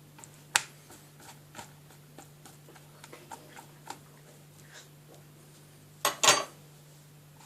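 Light clicks and taps of kitchen containers and utensils being handled, with one sharp click about half a second in and a louder double clatter about six seconds in, over a faint steady hum.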